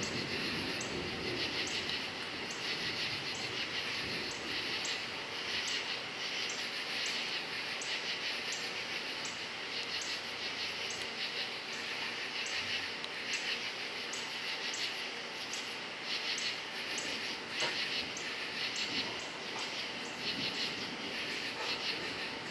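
Crickets chirping steadily in a continuous pulsing chorus, with chirps repeating about twice a second.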